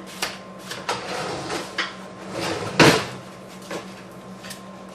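Kitchen handling noises: a series of light clicks and knocks, with one louder knock a little under three seconds in.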